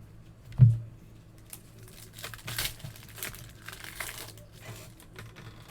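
A single thump about half a second in, then baseball card pack wrappers crinkling and tearing in short crackly bursts as packs are opened and handled.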